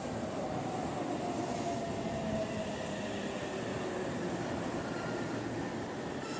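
Train passing through the station: a steady rumble of wheels on rail with a slowly falling whine and a brief high wheel squeal about three seconds in.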